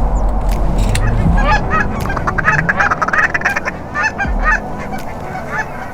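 Geese honking: many short, overlapping honks that start about a second in and keep on, over a low rumble in the first second or so.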